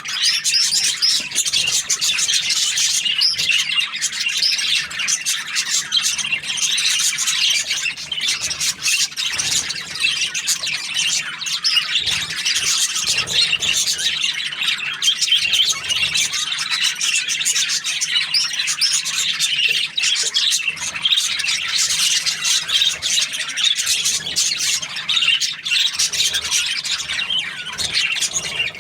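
Budgerigars chirping and squawking in a continuous, busy stream of short high calls.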